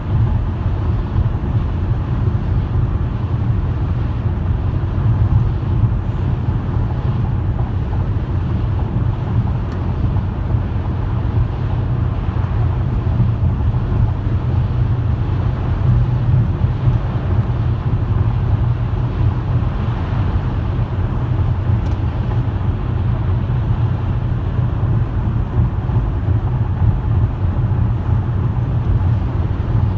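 Steady low rumble of a car driving: engine and tyre road noise, unchanging throughout.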